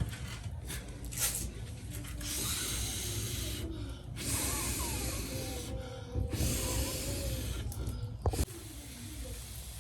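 Water poured into a cooking pot in three pours of about a second and a half each, a rushing hiss that starts and stops abruptly each time.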